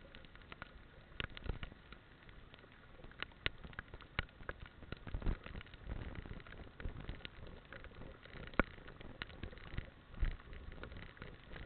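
Raindrops striking the camera on a moving motorcycle, heard as many irregular sharp taps, over a low, uneven rumble of wind and road noise.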